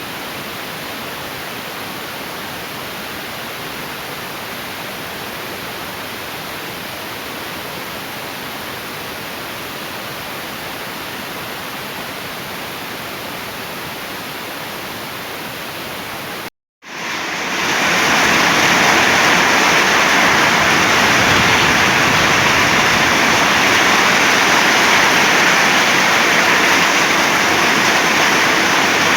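Heavy storm rain pouring down, a steady hiss. It drops out for a moment about sixteen seconds in and comes back louder.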